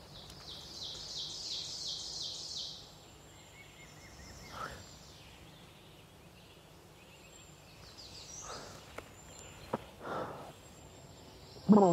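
Woodland ambience with birdsong: a bird repeats a high note about three times a second for the first few seconds, then fainter calls follow. A few soft rustles and a single click come later.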